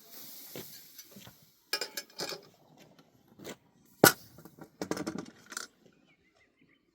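Dishes and utensils clinking and knocking as they are handled: a few separate clinks, the sharpest knock about four seconds in and a quick cluster after it. There is a soft hiss in the first second.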